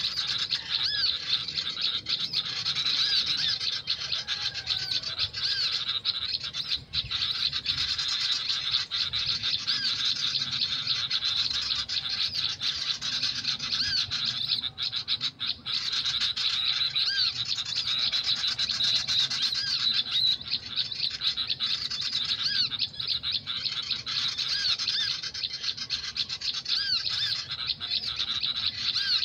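Small birds chirping: a dense, unbroken run of short, high chirps repeated over and over.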